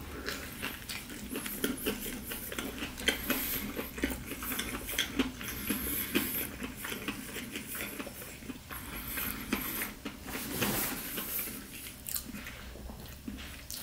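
A person biting into and chewing a crispy fried chicken sandwich, the breading crunching in many short, irregular crackles.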